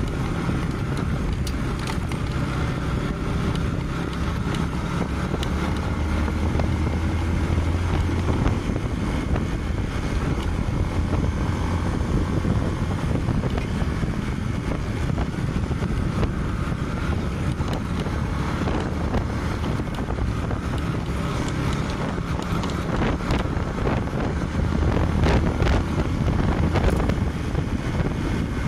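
Honda 200cc motorcycle engine running steadily, with wind noise on the microphone.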